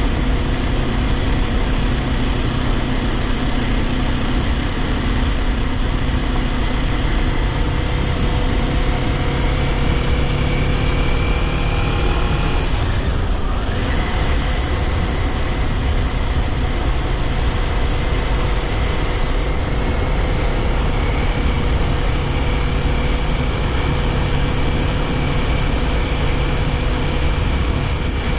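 Kawasaki Ninja 400's parallel-twin engine running on the move under steady wind rush. The engine note climbs slowly, drops briefly about halfway through, then holds steady again.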